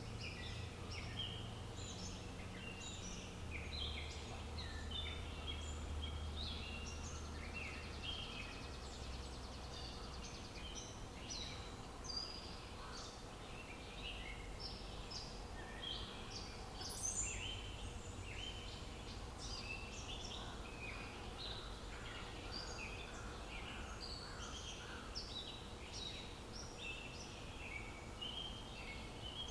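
A chorus of many small birds chirping at once, a steady stream of short overlapping calls, over a low rumble that is stronger in the first third.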